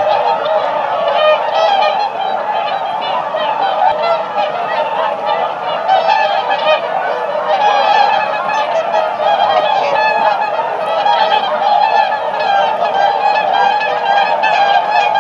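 A flock of white swans honking, many calls overlapping in a dense, continuous chorus.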